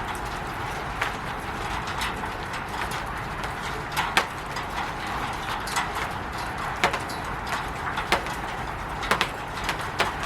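Rain falling on a roof: a steady hiss of rain with irregular sharp taps of heavier drops striking the roof, the loudest about four seconds in.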